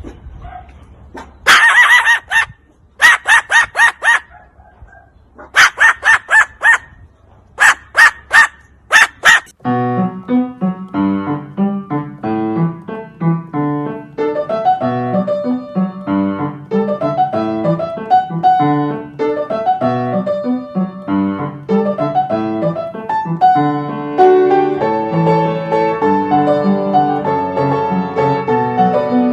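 Several loud, shrill bird calls, each about a second long, in the first nine seconds, followed by piano music from about ten seconds in.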